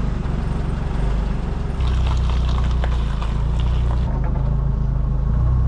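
An engine running steadily close to the microphone, a low even rumble that gets a little louder about two seconds in.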